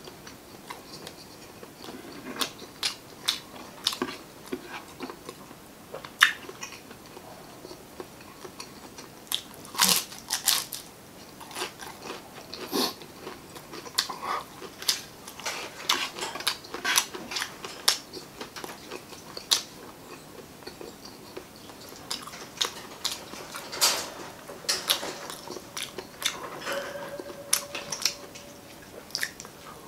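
Close-up eating: chewing and biting with frequent sharp, irregular crunches, from crispy fried chicken skin and adobo chicken gizzards and livers being eaten by hand.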